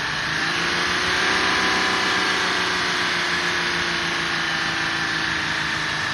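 Mercedes W126's 5.6-litre V8 running steadily with the revs held slightly above idle, its note rising a little about a second in and then holding.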